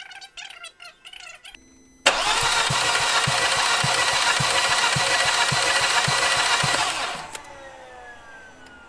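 Volkswagen 1.8 turbo four-cylinder engine cranking on the starter for about five seconds with a regular low thump, then winding down. This is a compression test on cylinder one, and the cylinder shows very low compression, about 25 psi.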